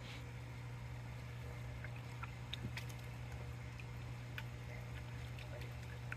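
Water in a bucket sloshing lightly as nutrient solution is mixed in, with scattered small clicks and drips over a steady low hum.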